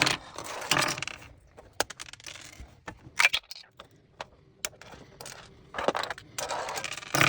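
Irregular clicks and short clattering bursts of small hard plastic pieces being handled and set down.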